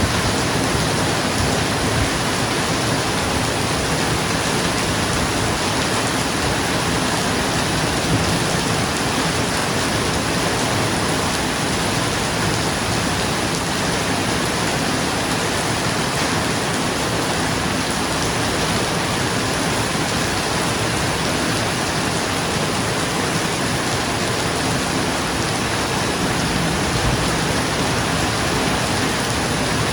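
Steady, even rain falling on a roof.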